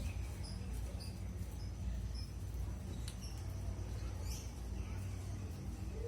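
Brown-chested jungle flycatcher (sikatan rimba dada coklat) giving short, faint, high chirps at irregular intervals, over a steady low hum.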